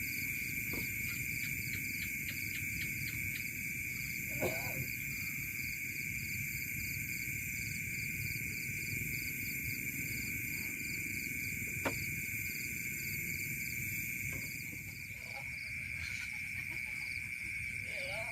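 Night chorus of insects and frogs: a steady high trill with a faster, evenly pulsing chirp above it, over a low background rumble. A sharp click comes about four seconds in and another near twelve seconds.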